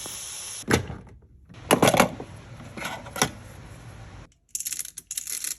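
Hard plastic parts of a coffee maker being handled: a few separate clicks and knocks, then a quick run of rattling clicks near the end.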